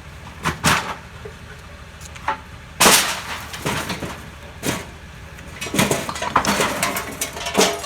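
Bulky waste banging, cracking and clattering in the hopper of a McNeilus rear-loader garbage truck: a series of sharp knocks, the loudest about three seconds in and a run of them near the end, over the truck's steady low hum.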